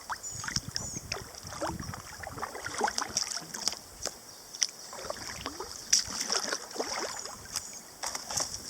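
Kayak paddle strokes splashing and dripping in the water in an irregular run of short strokes, as the kayak is worked around in a tight spot to turn.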